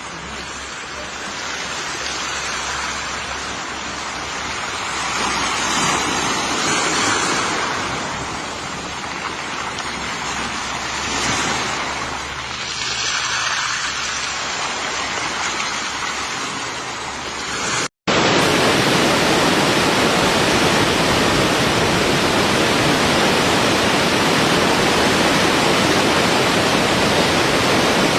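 Rushing water with no speech. For the first two-thirds it swells and ebbs every few seconds like waves. After an abrupt cut it becomes a steady, dense rush like a waterfall.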